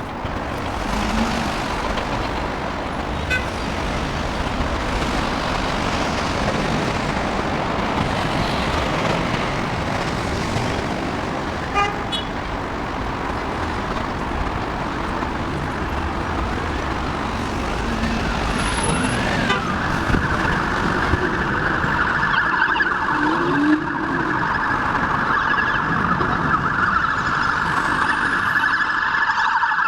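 Heavy road traffic at a busy city roundabout, cars and buses running past in a continuous wash of engine and tyre noise. An emergency-vehicle siren wails briefly a little past the middle, and a steadier rushing noise takes over for the last third.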